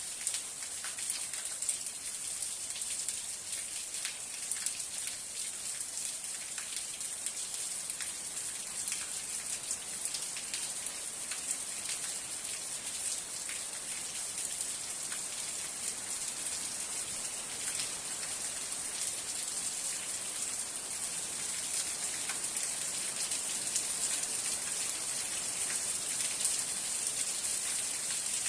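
Steady rain falling, a dense hiss of many drops ticking on a surface, growing slightly louder near the end.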